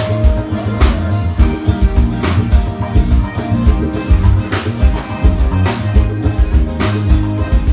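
A band playing live on stage during a soundcheck: drum kit with bass and electric guitar, loud, with sharp drum and cymbal hits every second or two over a steady bass line.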